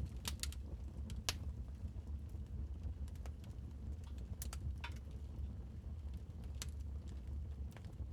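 Wood fire crackling in a fireplace: scattered, irregular sharp pops and snaps, the strongest about a second in, over a steady low rumble.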